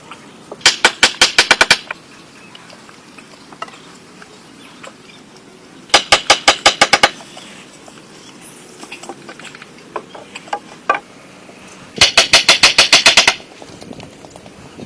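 Three bursts of rapid, evenly spaced knocking, about eight sharp strikes a second and each burst lasting about a second, with a few faint taps in between.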